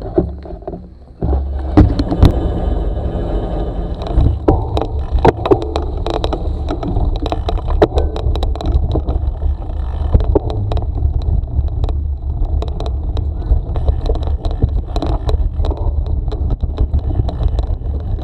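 Wind rumbling on the microphone of a moving bicycle, with the bike rattling and clicking over a rough, unpaved surface; it picks up about a second in.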